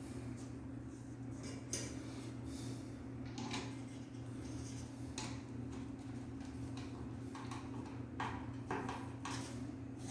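Irregular small clicks, clinks and scrapes of ceiling fan parts and hand tools being handled during installation, over a steady low hum.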